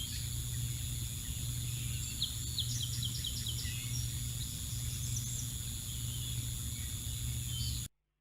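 Small birds chirping over a steady low hum and a faint high-pitched electronic whine from the camera's outdoor microphone, with a quick run of about six chirps about three seconds in. All sound cuts off abruptly near the end.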